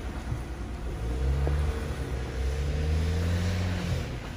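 Jeep Wrangler engine revving under throttle: the revs climb about a second in, dip briefly, climb again and drop away near the end.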